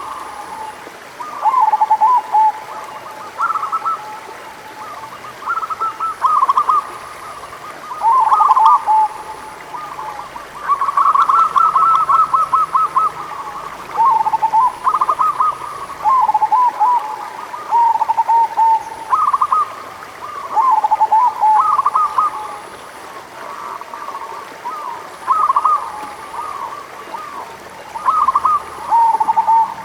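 Zebra dove (perkutut) singing: repeated phrases of rapid, stuttering coos, a new phrase every second or two.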